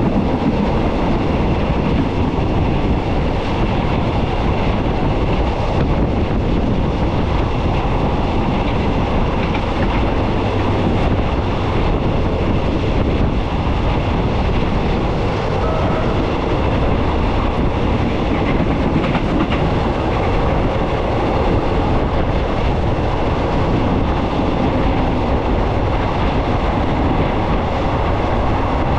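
A train running along the track: a steady, even rumble of wheels on rails that goes on without a break.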